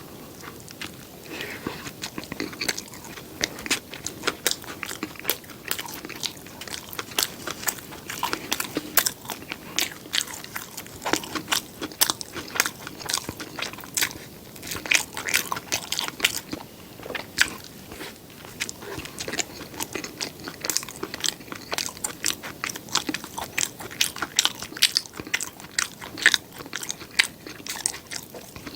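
Close-miked eating: a person biting and chewing food, with many sharp, irregular crunchy clicks.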